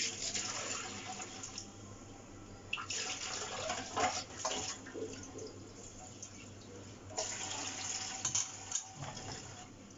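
Running water, heard in three stretches of about two seconds each, with short quieter gaps between.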